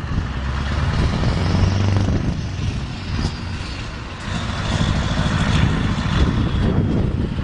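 Scania V8 diesel truck engine running, swelling in level twice, with a faint high whine over the deep engine note.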